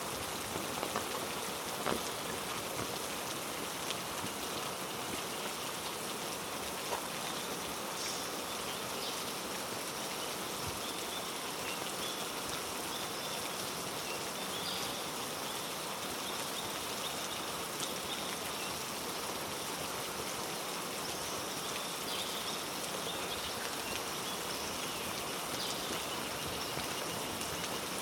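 Steady heavy rain falling on rainforest foliage, an even hiss throughout. Faint short high chirps sound here and there.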